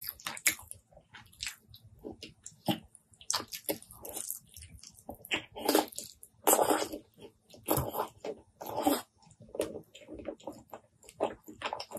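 Close-miked eating of saucy curried chicken and rice by hand: wet chewing, lip smacks and sticky clicks at an irregular pace, with a few longer wet squelches.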